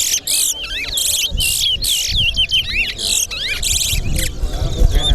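Towa-towa (large-billed seed finch) song: quick whistled phrases of sliding up-and-down notes, repeated again and again with short gaps. Two birds are singing against each other in a race, where each finished phrase is counted.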